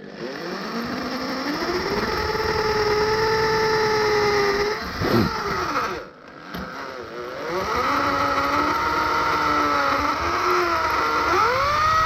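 Suzuki KingQuad 750 ATV engine running under way, its pitch rising as it accelerates. There is a sudden loud knock and a brief drop about five seconds in. The engine then rises and falls again before revving up near the end.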